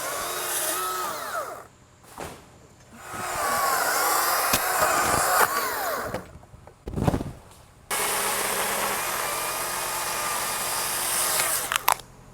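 Stihl MSA 200 battery chainsaw cutting a limb in three runs with short pauses between them, the motor's pitch dropping as the chain bites into the wood.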